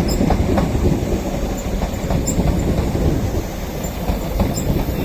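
Northern class 319 electric multiple unit running through the station, with a steady low rumble and its wheels clicking over rail joints and points. A few brief high squeaks come from the wheels.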